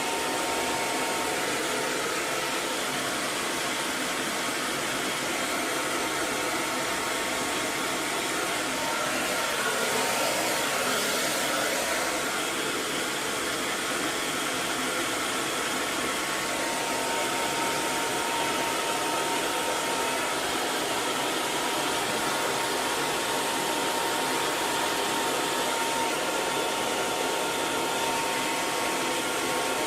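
Electric hair dryer running continuously: a steady whooshing blast of air over the whine of its fan motor, with a few faint steady tones.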